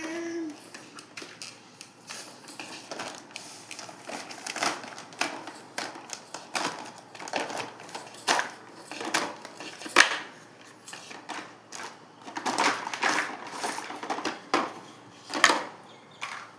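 A toy being handled and knocked about: irregular clicks and clattering of hard parts, with a few sharper knocks, the loudest about ten seconds in.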